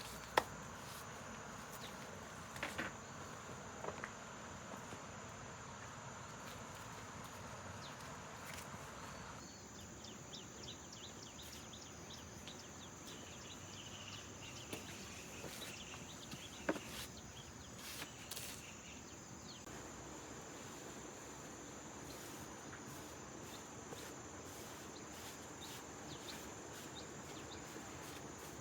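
Steady high-pitched chorus of crickets, with a few light knocks scattered through it.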